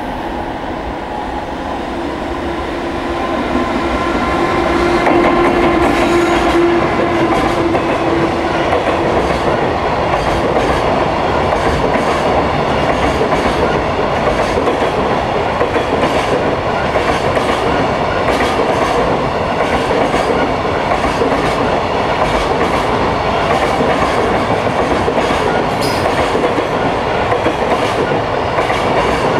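High-speed JR Freight container train approaching and passing close by. A steady tone runs under the noise for the first nine seconds or so, and the sound grows louder a few seconds in. Then the long line of container wagons rumbles past with the clickety-clack of wheels over the rail joints.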